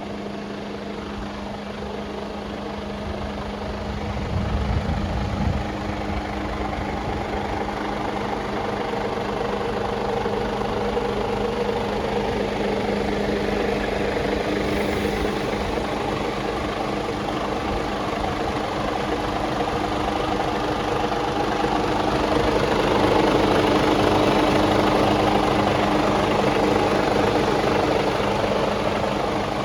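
Mercedes-Benz Actros 1948 truck's 12.8-litre straight-six diesel idling steadily, with some low thumping about four to five seconds in. It grows a little louder about two-thirds of the way through.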